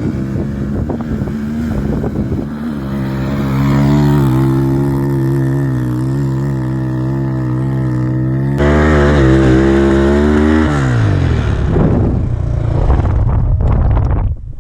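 Enduro motorcycle engine pulling hard at steadily held revs, stepping up in pitch and loudness about two-thirds of the way through. Near the end the revs fall away and the sound breaks into irregular bursts.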